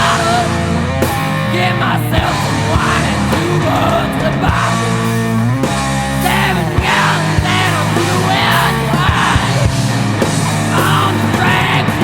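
Improvised rock jam music: a voice over guitar, bass and drums, with steady low bass notes and regular drum hits.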